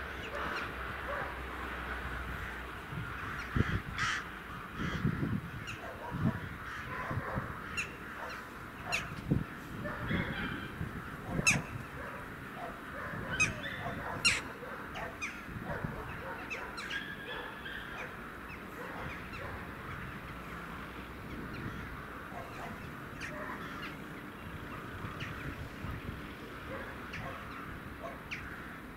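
Birds calling: many short, separate calls scattered over a steady background noise, most frequent in the first half.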